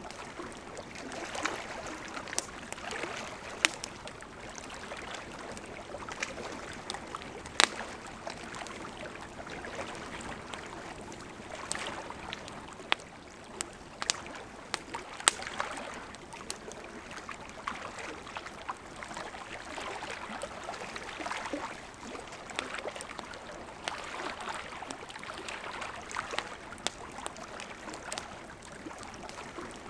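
Wood campfire burning: a steady rushing hiss of flames that swells and eases every few seconds, with frequent irregular sharp crackles and pops of burning wood, the loudest pops about 7 and 15 seconds in.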